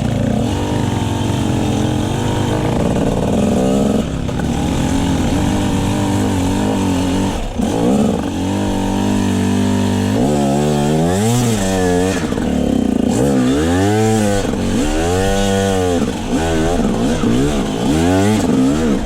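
Motorcycle engine running under load at fairly steady revs, then from about ten seconds in revved up and down again and again in a series of rising and falling sweeps.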